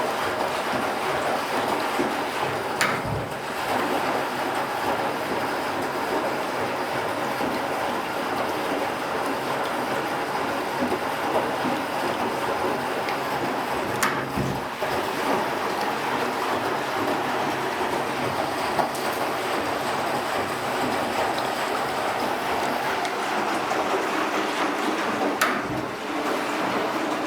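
1956 Eudora B09 semi-automatic washing machine running with a steady mechanical churn. Three sharp clicks, about eleven seconds apart, each followed by a brief dip in the sound.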